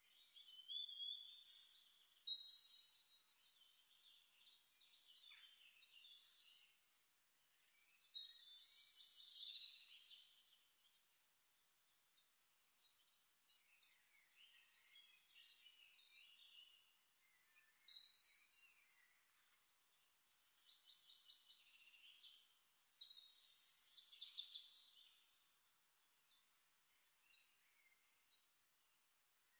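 Faint birdsong: high chirps and short trills in phrases that come and go every few seconds, loudest about 2, 9, 18 and 24 seconds in.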